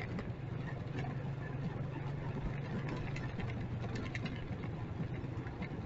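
Motorcycle engine running at a steady, unchanging pitch, under a haze of street noise.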